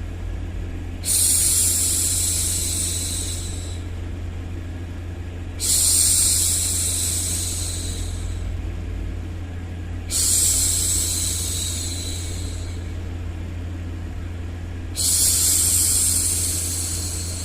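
A woman shushing a baby, four long 'shhh' sounds about every four and a half seconds, each fading away. Underneath runs a steady low noise.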